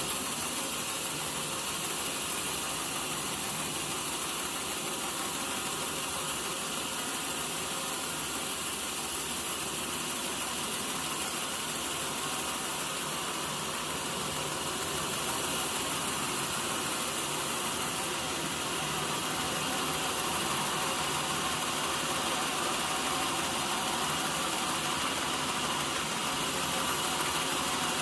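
Sawmill machinery running steadily: a continuous mechanical noise with small dips in loudness.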